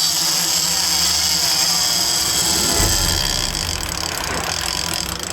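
Heavy fishing reel buzzing steadily as a hooked bluefin tuna pulls against it, with a low rumble joining about three seconds in.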